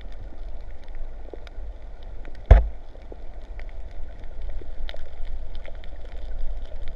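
Rain falling on the sea around a swimmer: a steady low rumble of water with many light scattered ticks, and one sharp knock about two and a half seconds in.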